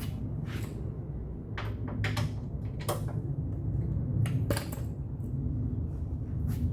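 Scattered short clacks and clinks of hand tools and metal or plastic parts, about seven in all, as a car fender is being taken off. A steady low hum runs underneath.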